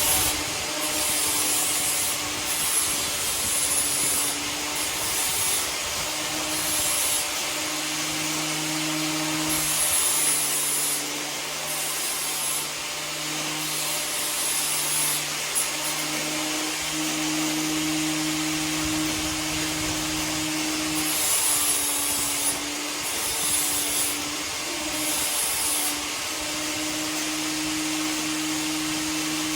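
An abrasive power tool running steadily with a sanding, rubbing sound. Its hum drops out and comes back every few seconds, and a high hiss starts and stops along with it.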